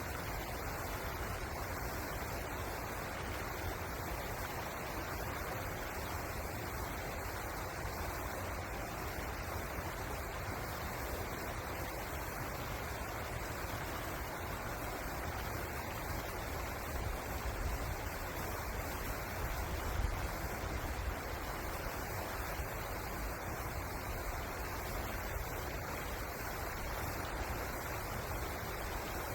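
Steady rushing of flowing river water, an even noise with a low rumble underneath.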